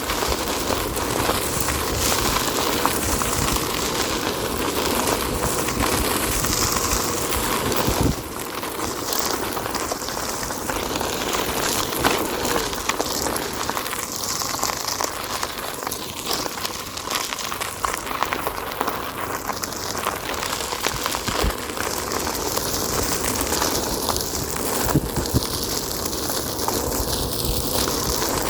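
Onewheel electric board riding along a dirt forest trail: the tyre rolling over the trail surface with many small ticks and crackles, and a faint steady motor hum under it. The level drops about eight seconds in.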